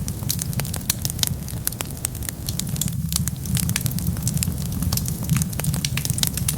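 Wood fire burning, with dense irregular crackles and pops over a steady low rumble of flames.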